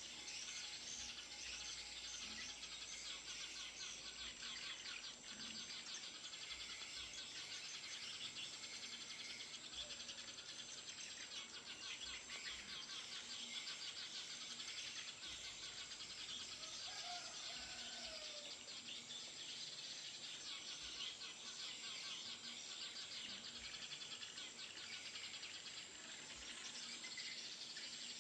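Dense, continuous chirping of Eurasian tree sparrows, many rapid overlapping calls, over a steady high buzz.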